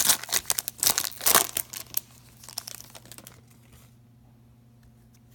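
A hockey card pack wrapper being torn open and crinkled for about two seconds. A few lighter rustles follow, then it goes quiet except for a faint steady hum.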